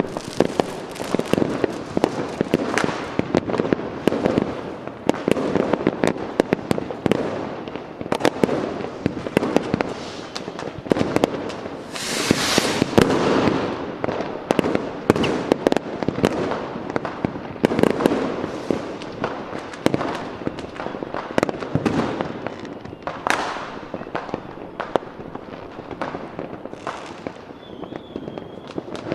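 Fireworks going off in a dense, rapid barrage of bangs and crackles, with a loud hissing burst about twelve seconds in. The bangs thin out somewhat toward the end.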